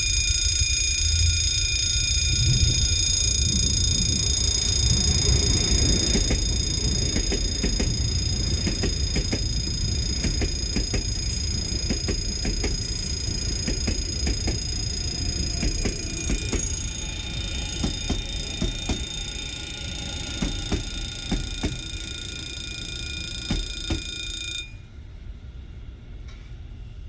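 A CSR Mitsubishi electric multiple unit on the Sarmiento line running past, with a low rumble and wheels clicking over rail joints. Over it is a steady high-pitched ringing tone that cuts off suddenly near the end.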